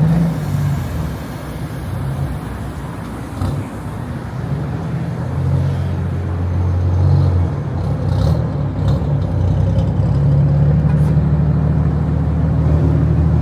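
Toyota Supra's engine running at low revs as the car is moved slowly to be parked: a steady deep drone that grows louder over the second half.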